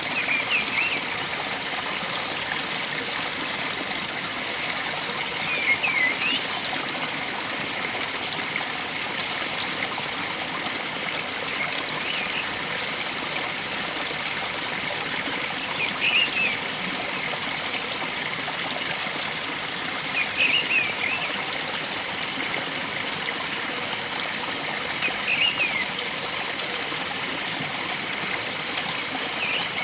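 Steady rush of a flowing stream, with a bird's short chirping call repeated about every four to five seconds, seven times in all.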